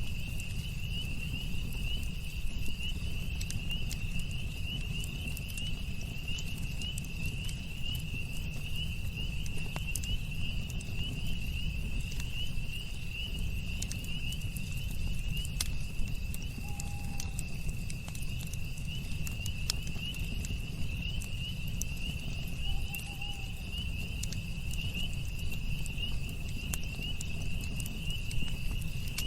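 Campfire crackling with scattered sharp pops and a steady low rumble, under a continuous chorus of night insects trilling in a high, fast-pulsing band. Two brief faint calls stand out, one a little past the middle and one about three quarters of the way through.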